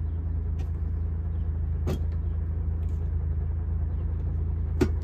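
1972 BMW Bavaria's straight-six engine idling steadily, heard from inside the cabin. Two light clicks, about two seconds in and near the end, as the dash heater slide levers are moved.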